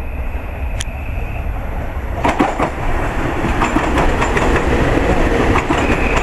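Passenger train running past a station platform: a steady rumble that grows louder, with a run of sharp wheel clicks over rail joints starting about two seconds in.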